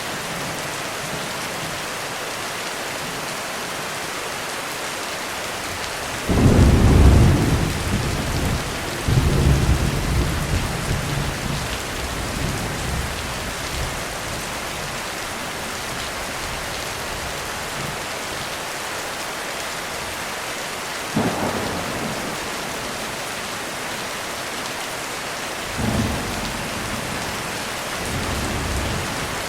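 Heavy rain falling steadily, with thunder: a loud clap about six seconds in that rumbles on with a second peal a few seconds later and fades out, then two shorter cracks later on.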